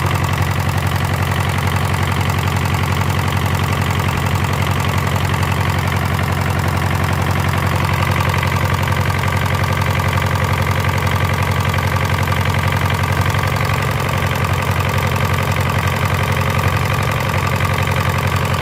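Hatz diesel engine running steadily, with a fast, even beat of firing pulses and a strong low hum.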